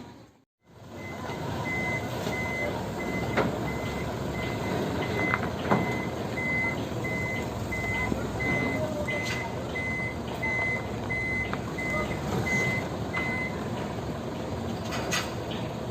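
Truck reversing alarm beeping steadily, about three beeps every two seconds, over a running truck engine. The beeping starts just after a brief drop-out and stops a couple of seconds before the end. A few sharp knocks sound along the way.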